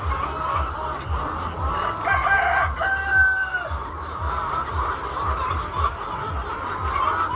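A rooster crowing once, a long held call that drops at the end, starting about two seconds in, over the steady clucking of a flock of hens. A regular low pulse runs underneath.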